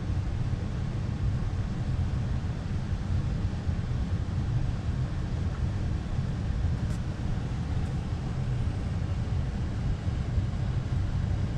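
Air handler blower running steadily after ramping up, a low even rush of air and motor.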